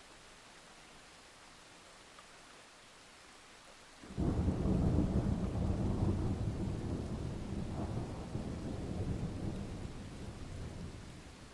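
Thunderclap over steady rain: about four seconds in, a sudden deep rumble of thunder breaks in and then slowly fades away beneath the rain.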